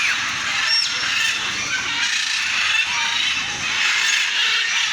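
Many aviary birds chirping and calling at once, a dense, continuous chatter of short high chirps and sliding calls.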